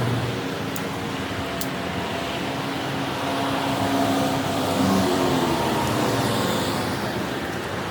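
Excavator's diesel engine running steadily, its pitch shifting slightly now and then as it works.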